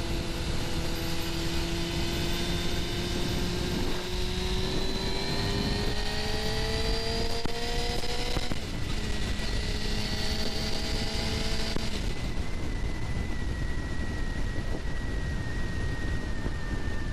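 Suzuki GSX-R750 inline-four engine under way, its pitch climbing slowly through the revs. About eight and a half seconds in there is a brief break, as at a gear change, then a second climb, and the revs hold steady from about twelve seconds in. A steady rush of wind noise runs underneath.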